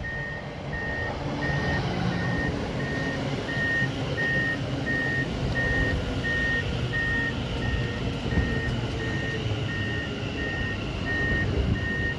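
Electronic warning beeps at one high pitch, a little over two a second, repeating steadily and of unknown source. Under them is the low rumble of a Class 730 electric multiple unit pair in the platform.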